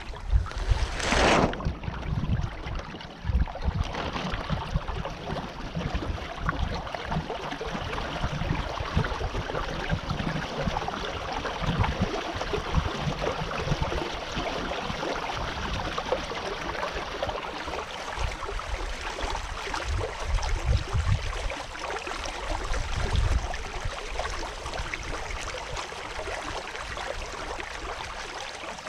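Water rushing and lapping along the hull of a sailing canoe under way, a steady wash with uneven low rumbling from wind on the microphone. A brief louder hiss comes about a second in.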